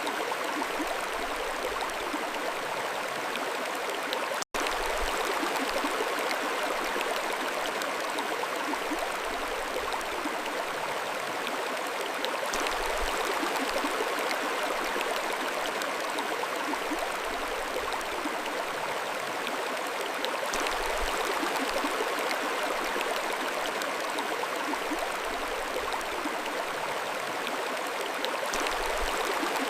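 Mountain stream flowing steadily, a continuous rush of water broken once by a split-second gap about four and a half seconds in.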